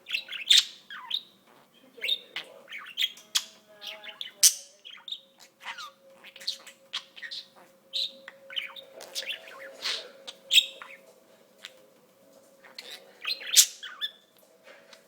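Budgerigar chattering: an irregular run of short, sharp chirps and clicks with no pause.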